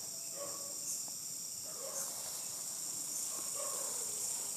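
Night insect chorus, crickets trilling steadily in a high-pitched layered drone, with a few faint short lower calls mixed in.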